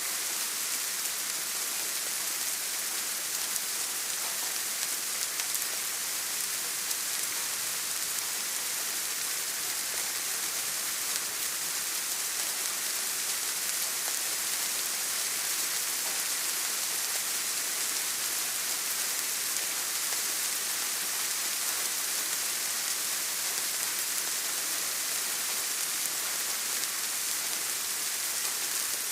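Steady rain falling, an even hiss of many drops with no distinct drips or thunder.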